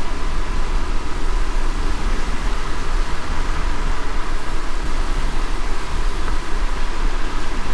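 Steady driving noise in light rain: a low rumble of car and tyres on a wet road under an even hiss of rain.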